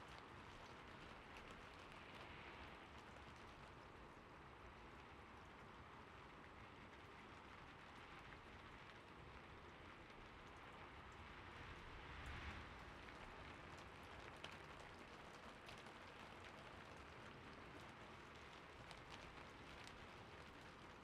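Faint, steady gentle rain with a soft, even patter, swelling briefly a little past the middle. A few faint, scattered clicks sound over it.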